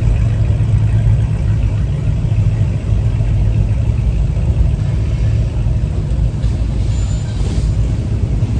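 A vehicle engine running nearby with a steady low rumble.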